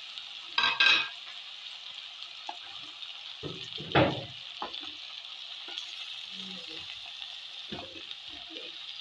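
Chicken and freshly added chopped tomatoes sizzling in hot oil in an aluminium karahi, with a steady frying hiss. A wooden spoon stirs and knocks against the pan, with the loudest clatters about half a second in and about four seconds in, and a lighter one near the end.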